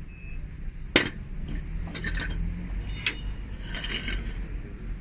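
Metal tools clanking during a bus tyre change: a sharp metallic knock about a second in, another near three seconds, and scattered clinks between, over a steady low rumble.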